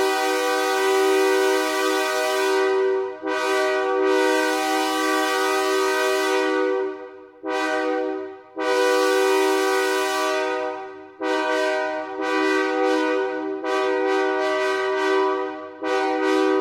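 A 1982 Nathan K5HL five-chime air horn sounding its chord in three long blasts with short ones between, then a quick run of short toots. A fouled chime makes it sound like a three-chime K3HA.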